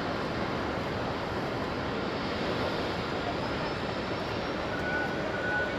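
Airbus A330 jet engines running: a steady, even rush of noise.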